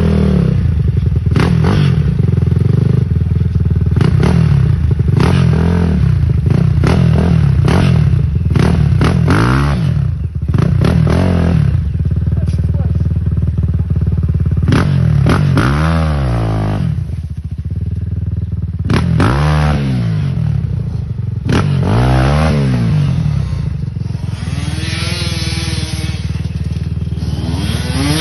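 Geon GNX 300 enduro motorcycle engine revving up and falling back over and over in quick throttle bursts, with scattered knocks and clatter as the bike is ridden.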